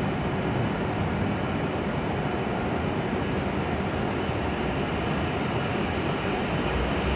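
Steady hum and whir of an E7 series Shinkansen train standing at the platform, its air conditioning and onboard equipment running.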